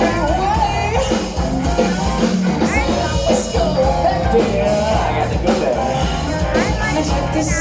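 Rock band playing live: a rock-and-roll song with drums, bass and guitar.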